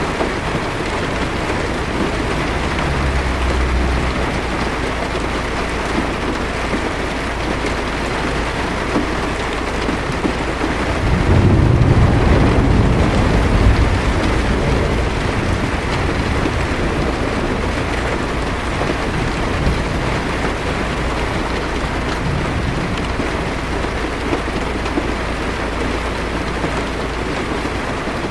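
Steady heavy rain hitting a car's windshield, with low thunder rumbling in the distance: a short rumble a few seconds in and a louder, longer one just before halfway through.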